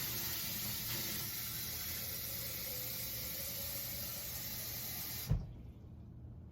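Warm water running from a kitchen tap in a steady hiss, most likely into a measuring cup for the brine, with a faint tone rising in pitch partway through. It stops about five seconds in with a short knock.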